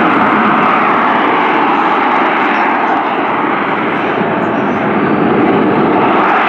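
Loud, steady jet noise from the Rolls-Royce Pegasus turbofan of a USMC AV-8B Harrier II.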